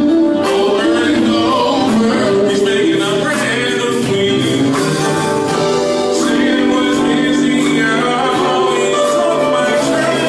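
Gospel group singing with instrumental accompaniment and a steady beat, the voices holding and sliding between long notes.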